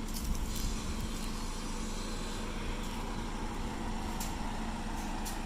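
A motor vehicle's engine running steadily with a low rumble and a faint steady hum, with a few light clicks.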